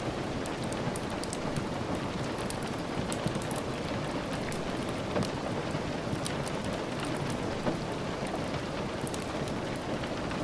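Steady rain, with many faint, sharp ticks scattered through it.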